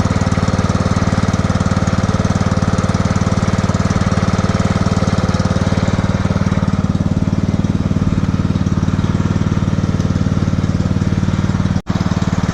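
Pit bike's small single-cylinder engine running steadily after a bump start, its exhaust pulses even and continuous, with a momentary gap near the end.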